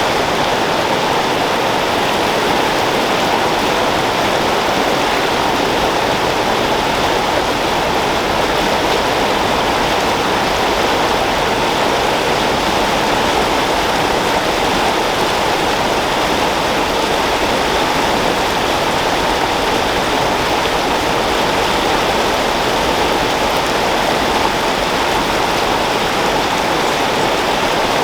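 Creek water flowing and splashing over rocks, a steady, loud rush with no breaks.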